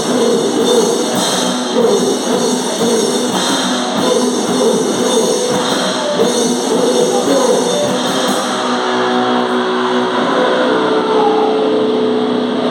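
Live noise metal band playing loud distorted guitar over a busy drum kit with cymbals. About eight seconds in the drums and cymbals stop, leaving held, ringing guitar notes.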